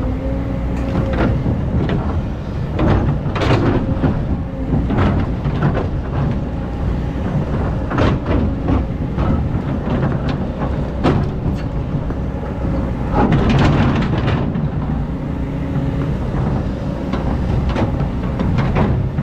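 Excavator's diesel engine running steadily under load, with repeated knocks and scrapes as the bucket digs into sand.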